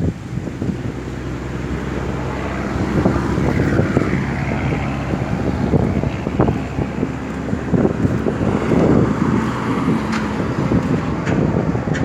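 A motor vehicle's engine running steadily, with wind buffeting the microphone.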